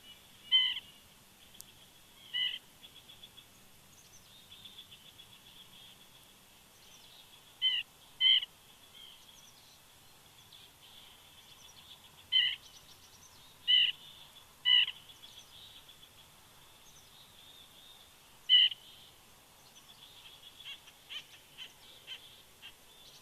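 A woodpecker calling close by: about eight loud, short single calls spaced a second to several seconds apart, over faint chirping of other birds. Softer, quicker notes come near the end.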